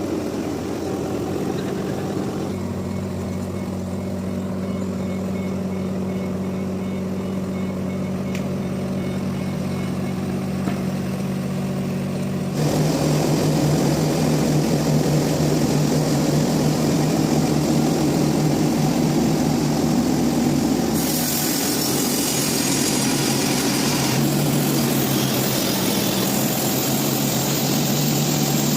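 Sawmill machinery running with a steady motor hum. About halfway in the sound changes abruptly to a louder hum, and a higher hiss joins it about two-thirds of the way in.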